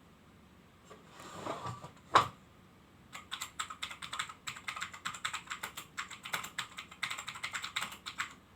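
Typing on a keyboard: a run of rapid key clicks lasting about five seconds, after a short rustle and one sharp knock.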